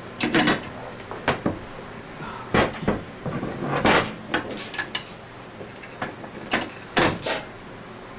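Metal parts and hand tools clinking and knocking in irregular sharp taps, handled during the rebuild of a scroll vacuum pump.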